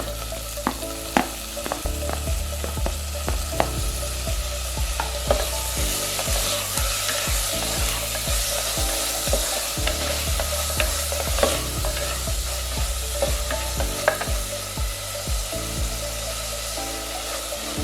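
Onions and freshly added tomatoes sizzling as they fry in ghee in a clay biryani pot, stirred with a spoon that clicks against the pot a dozen or so times.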